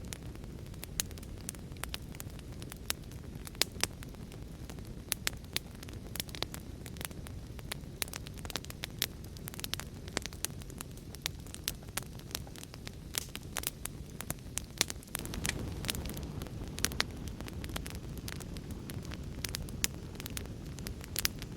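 Wood fire crackling, with frequent irregular sharp pops and snaps over a steady low rumble that swells a little about fifteen seconds in.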